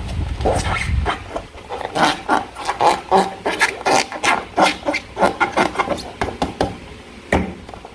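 Slime being squeezed and worked by hand, making a quick run of short wet squelches and pops, several a second.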